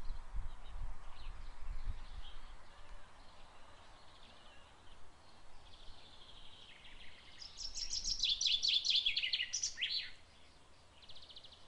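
A small songbird singing in quick chirping trills, loudest for about two seconds around three-quarters of the way in, with a brief rapid rattle near the end. A few low thumps come in the first two seconds.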